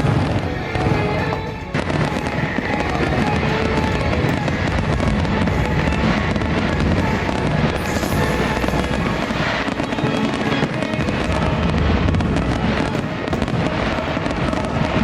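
Fireworks bursting one after another, many bangs in quick succession, over the show's music soundtrack.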